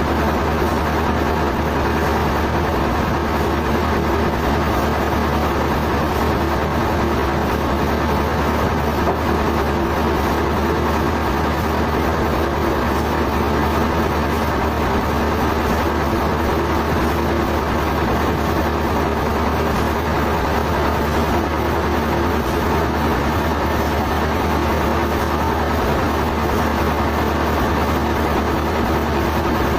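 Sawmill machinery running steadily: an even, unchanging low mechanical hum.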